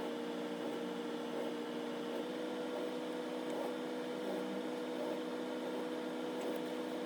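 Steady hum made of a few constant tones over a faint hiss, unchanging throughout.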